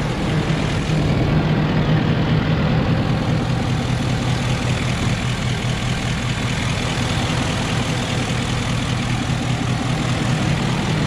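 A Ford 6.7 L Power Stroke V8 turbodiesel, tuned and with its emissions equipment deleted, idling steadily.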